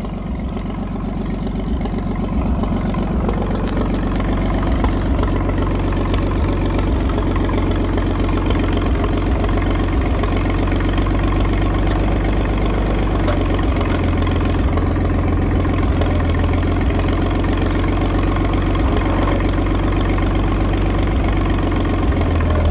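Farmall 560 tractor's six-cylinder engine running steadily with its muffler removed, an open, unmuffled exhaust.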